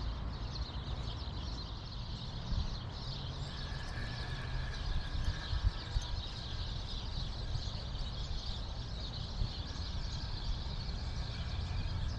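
Steady rush of flowing creek water, with a low rumble and a few soft knocks from wading and handling gear in the stream.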